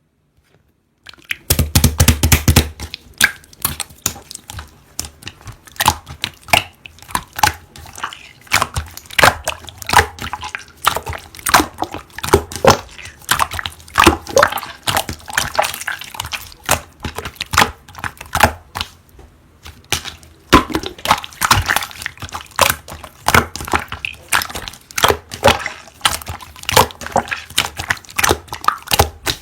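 Hands squishing, pressing and stretching a pearl slime: rapid, irregular sticky clicks and wet pops, starting about a second in.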